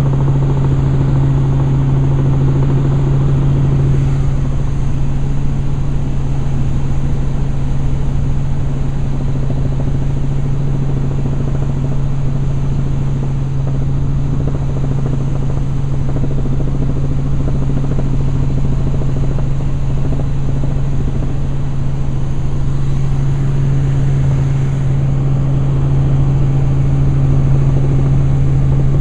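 Helicopter in flight, heard from on board: a loud, steady drone of engine and rotors with a strong constant low hum.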